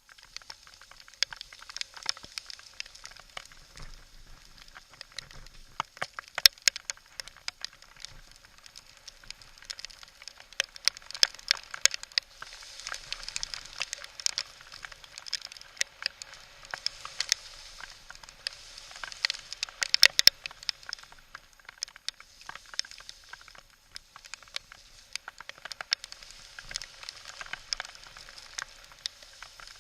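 A Specialized FSR mountain bike clattering down a rocky trail in heavy rain: a steady hiss with many sharp, irregular clicks and crackles, in denser, louder clusters around the middle of the stretch.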